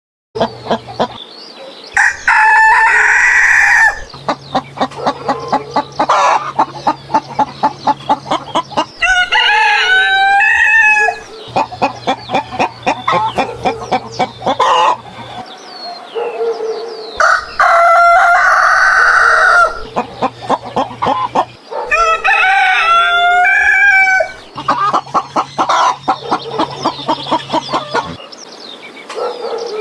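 Chickens: a rooster crowing several times in long drawn-out calls, with hens clucking in rapid runs of short notes between the crows. The same sequence plays through twice.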